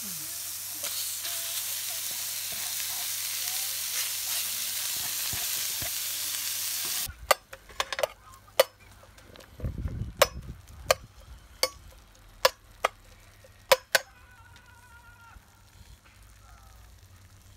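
Beef and onions sizzling loudly in a hot stainless steel pan with no oil; the sizzle cuts off suddenly about seven seconds in. After that a metal spoon stirs the beef, clinking sharply against the pan about a dozen times.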